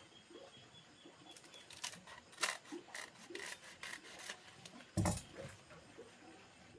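Irregular rubbing and scraping strokes with scattered clicks, and a louder thump about five seconds in.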